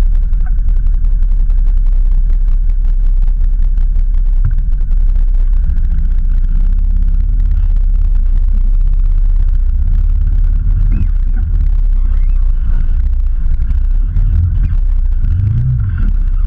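Off-road vehicle engine idling, a loud low running sound picked up through a camera mounted on the vehicle's body. The engine note shifts near the end as the vehicle moves off.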